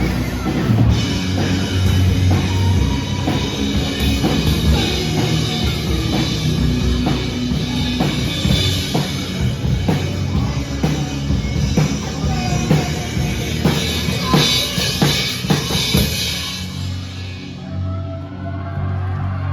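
Rock band playing live, with the drum kit to the fore: bass drum and snare hits over bass guitar. The cymbals and upper sound drop out about three-quarters of the way through, leaving a low held bass note.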